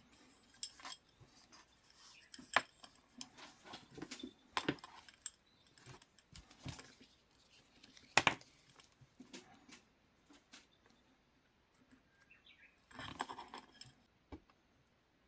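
Faint, irregular light clicks and taps of plastic cable ties being handled, with two sharper clicks. A short rustle comes near the end.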